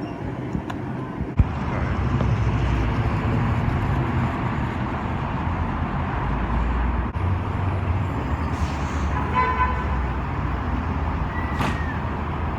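Street traffic noise with a steady low rumble, which gets louder after a sharp click a little over a second in. A short car horn toot sounds about nine seconds in.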